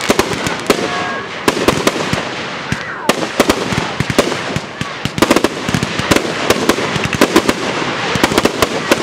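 Consumer aerial firework cakes firing: a rapid, uneven string of sharp bangs, several a second, over continuous crackling.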